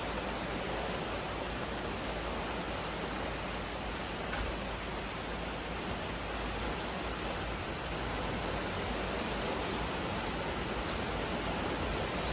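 Steady rain falling, an even hiss with a few faint drip ticks. No thunder is heard.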